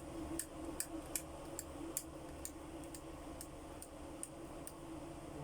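Ceiling fan running with a steady low hum and sharp clicking, about two to three clicks a second. The clicking is the sign of a twisted wire at the top of the fan above the motor, a fault that can make the fan spark and burn.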